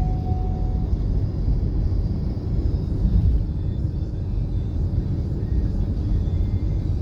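Steady low rumble of a long freight train rolling by, with a faint steady tone that stops about a second in.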